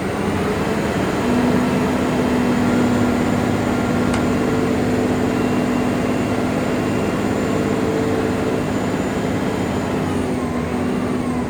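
Scania R480 dump truck's straight-six diesel engine running, its revs rising in the first second, held steady, then falling away near the end.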